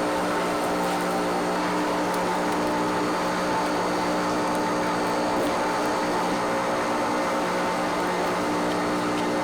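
Steady machine hum from plastic-processing factory machinery, running evenly with a constant drone over a noisy whir.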